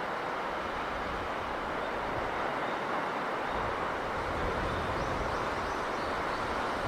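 Steady sea breeze and surf: an even rushing hiss over a gusty low rumble.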